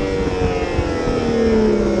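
Yamaha R1's inline-four engine winding down off the throttle, its pitch falling steadily, over low wind rush.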